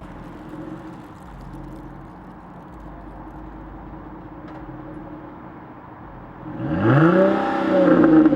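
Dodge Charger 3.5L V6 with its resonator removed, running steadily at cruise, then revving hard about six and a half seconds in, the exhaust note climbing in pitch and falling back as the throttle eases.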